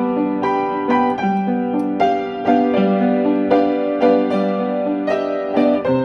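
Piano music: a melody of evenly paced notes over sustained lower notes, each note struck cleanly and ringing on.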